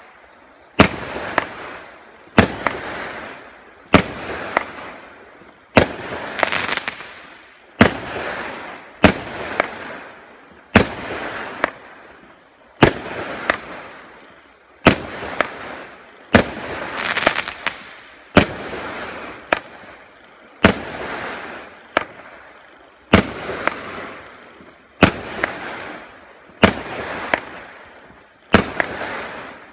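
A 36-shot, 20 mm consumer fireworks battery firing shot after shot: a sharp bang about every two seconds, each followed by a rush of noise that fades over a second or so.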